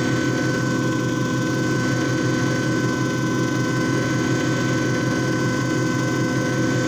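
JFJ Easy Pro disc repair machine running steadily, its motor giving a constant whirring hum with a steady high whine over it.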